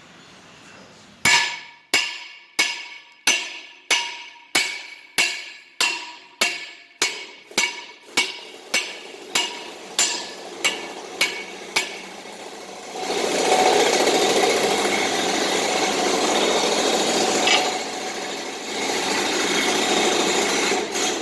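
About eighteen steady hammer blows, roughly one and a half a second, each ringing on the steel of a New Holland 648 round baler roller being taken apart. About a second after the blows stop, a power tool starts and runs steadily to the end.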